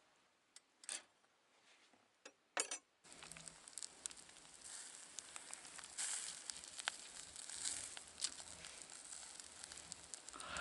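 A few brief rustles, then from about three seconds in a wood fire in a fire pit crackling steadily with many small pops.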